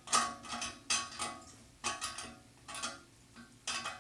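Metal engine parts clinking and knocking, about eight sharp hits over the four seconds, each with a short metallic ring: a cylinder being handled against a Porsche 911 crankcase half.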